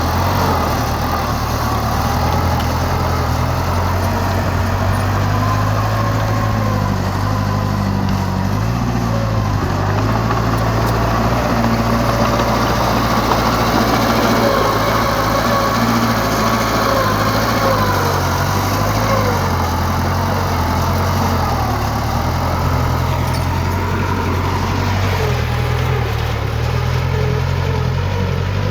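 Heavy diesel earthmoving machinery running steadily, a low engine drone whose pitch shifts slightly with load, with a fainter higher tone wavering above it.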